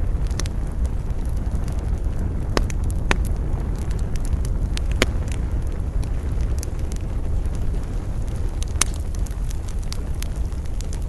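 Wood campfire crackling, with irregular sharp pops and snaps over a steady low rumble of wind.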